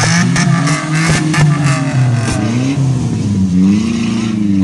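Car engine revving up and down over and over, with a quick run of sharp cracks in the first couple of seconds.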